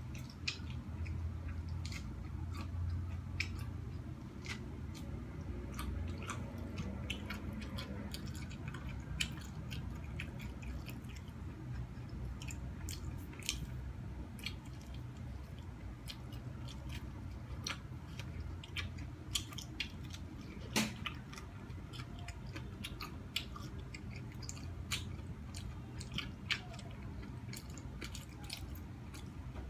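A person eating corn on the cob close to the microphone: biting kernels off the cob and chewing, with many small wet clicks and crunches scattered throughout.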